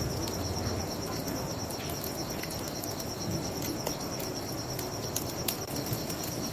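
Crickets chirping in a steady, fast-pulsing high trill, with scattered sharp crackles and pops from a wood bonfire over a low, even rush of river water.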